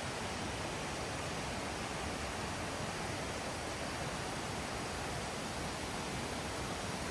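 Steady rush of flowing water from a stream or small waterfall, an even hiss without breaks.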